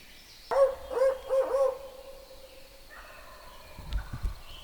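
Wild turkey gobbler gobbling once, loud and close: a rapid rattling gobble of about four quick rolls, starting about half a second in and lasting about a second. A few low thumps follow near the end.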